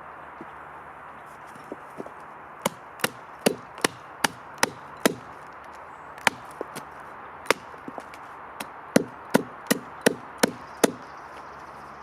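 A hand tool striking wood in a quick series of sharp knocks, two to three a second, with a short pause partway through.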